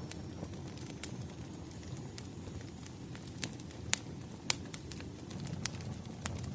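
Wood fire crackling: irregular sharp pops and snaps over a low, steady rumble of burning logs, the loudest pops about four seconds in.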